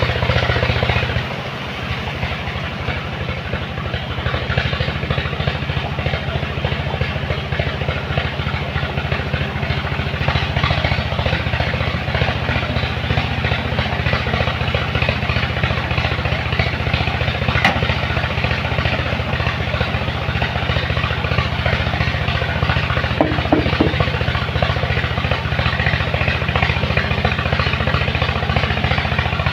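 Truck diesel engine running with a steady low drone; it drops slightly about a second in, then grows gradually louder.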